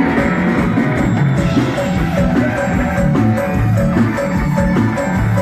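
Live band playing an instrumental passage: a steady drum and bass beat under a short repeated melody with a mallet-like, xylophone-like tone.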